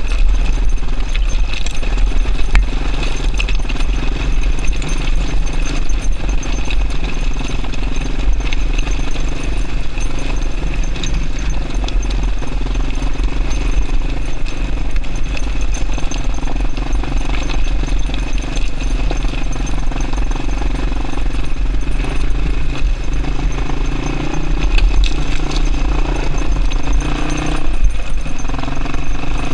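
Yamaha Serow XT225's single-cylinder four-stroke engine running steadily while riding, with a heavy low wind rumble on the microphone; the engine note shifts in pitch near the end.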